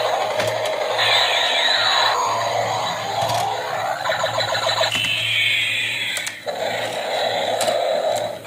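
Battery-powered toy train running along plastic track, its small motor whirring steadily with rattling clicks and a couple of falling whining sweeps.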